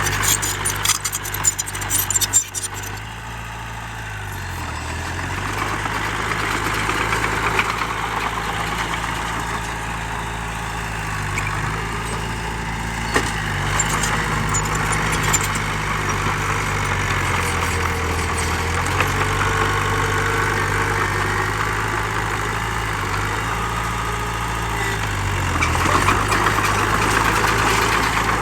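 Heavy diesel engine of an earthmoving machine running under changing load, its pitch dipping and recovering about four times. Rattling clatter, like stone or metal, in the first few seconds.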